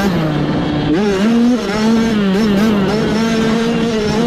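Small dirt bike engine running hard under throttle. The revs dip at the start, climb again about a second in, then hold high with small rises and falls.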